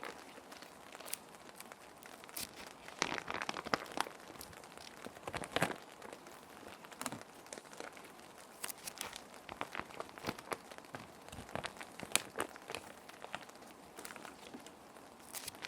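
Plastic sheet protectors crinkling and rustling as paper sheets are slid into them: irregular crackles and short rustles, thickest a few seconds in, over a steady hiss of background rain.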